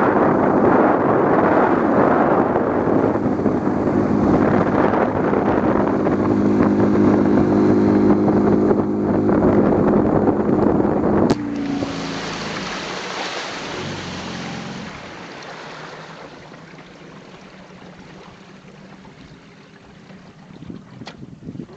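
Motorboat engine running steadily under way, then dropping off sharply about halfway through. After that, the rush of water and wind fades as the boat slows.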